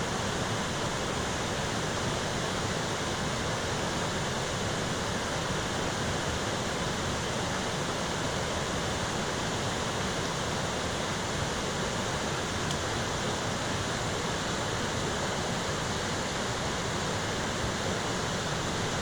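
Heavy rain falling: a steady, unbroken hiss of downpour.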